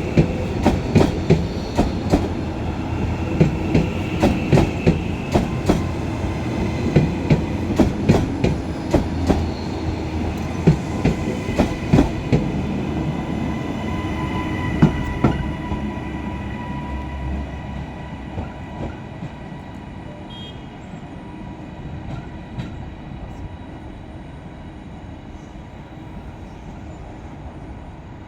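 A passing multiple-unit train's wheels clicking rhythmically over rail joints, with a low rumble and a faint steady whine. The clicks thin out after about 16 seconds and the sound fades as the train moves away.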